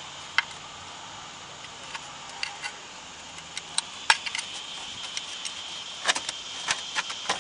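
Scattered short metallic clicks and taps as a tool works at the edge of a Toyota Corolla's oil pan, trying to pry it off the engine. The sharpest tap comes about four seconds in, with a quick pair about six seconds in.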